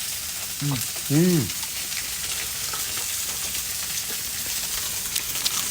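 Pork sizzling on a barbecue grill, a steady hiss, with a brief voice sound about a second in.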